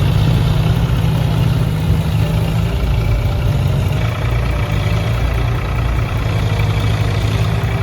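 Heavy vehicle engine running steadily with a low, even rumble.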